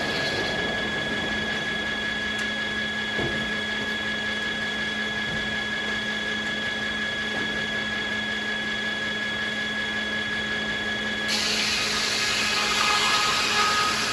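Sawmill machinery running with a steady high whine. About eleven seconds in, a louder hissing noise joins it and carries on.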